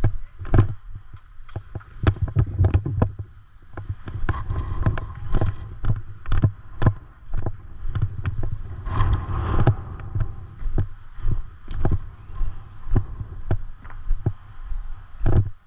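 A loud, irregular run of dull thumps and sharp knocks, several a second, with a rustling haze between them.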